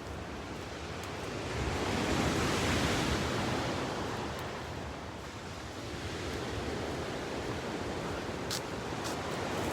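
Ocean surf: a wave swells and breaks about two seconds in, then washes out, with the steady hiss of the surf beneath.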